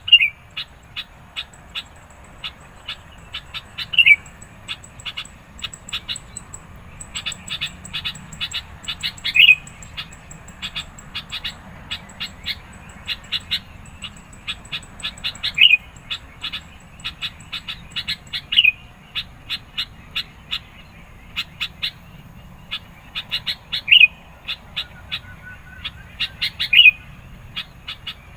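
Sooty-headed bulbul (kutilang) calling repeatedly: loud, short, bubbly phrases every few seconds, with rapid sharp chattering notes in between. A faint, steady, high thin tone runs through the first half.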